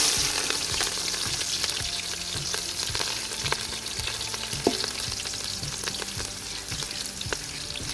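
Chopped ginger, garlic and green chillies sizzling steadily in hot sunflower oil as they are stirred, with scattered clicks of the utensil against the pan.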